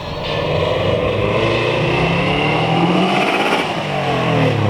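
A car engine accelerating close by, its pitch rising over the first couple of seconds, then falling away toward the end as the car moves off.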